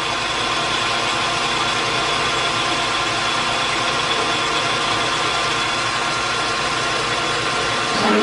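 Metal lathe running steadily with a steady hum and several fixed tones while it takes a spring pass, a final light pass at the same setting to clean up the turned diameter.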